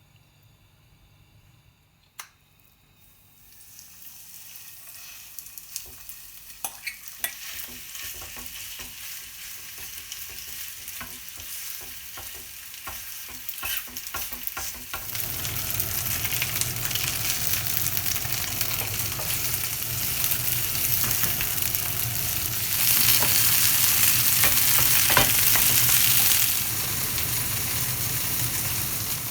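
Chicken shallow-frying in a little oil in a frying pan, sizzling with scattered pops. After a sharp click about two seconds in, the sizzle starts and builds: it grows louder about halfway through and is loudest for a few seconds near the end.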